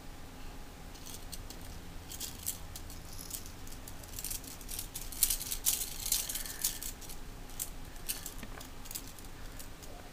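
Irregular runs of sharp, high-pitched pops and clicks, densest in the middle: the popping sound Jasper makes.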